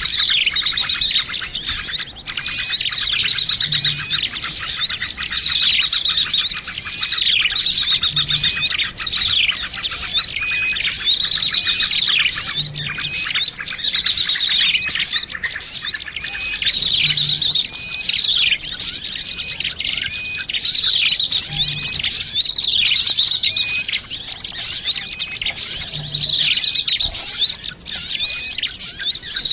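Dense, noisy chorus of many small birds chirping and trilling at once, a mixed bird-luring recording with no pause in the calls.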